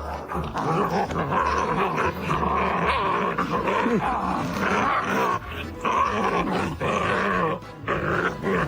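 A dog vocalising: a run of short pitched calls that rise and fall, with no pause between them.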